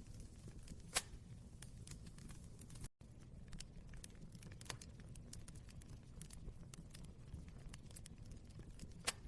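Wood fire crackling: irregular small snaps over a low steady rumble, with two louder pops, one about a second in and one near the end. The sound drops out briefly about three seconds in.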